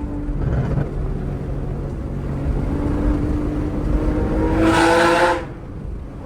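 Porsche 911 Targa's flat-six engine through an aftermarket exhaust, accelerating: its note climbs steadily and grows louder to a peak about five seconds in, then drops off sharply.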